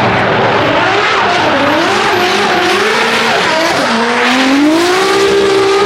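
Drift car sliding past under power: its engine revs rise and fall with the throttle over a steady screech of skidding tyres. The revs dip about four seconds in, then climb and hold.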